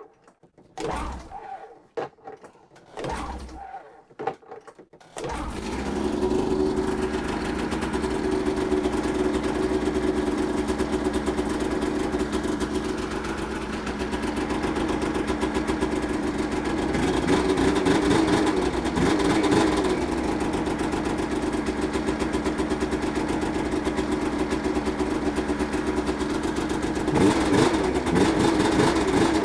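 Polaris RMK 800 snowmobile's two-stroke twin engine cranking in a few short bursts, then catching about five seconds in and running steadily, revved up briefly twice later on. It starts and keeps running once its ignition capacitor has been charged from a battery.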